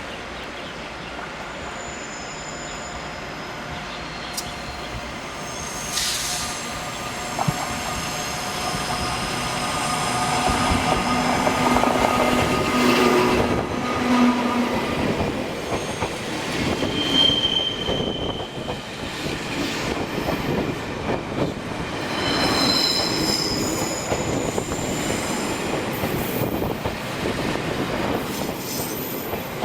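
A passenger train running on station track, with high-pitched wheel squeals coming and going over its rumble. The running sound grows louder through the middle.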